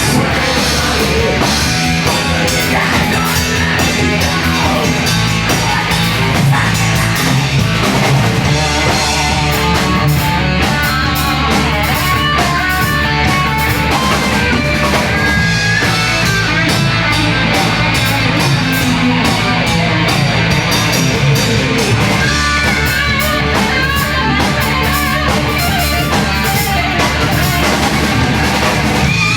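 A post-hardcore band playing loud and without a break: distorted electric guitars over a drum kit with busy cymbals and a heavy low end.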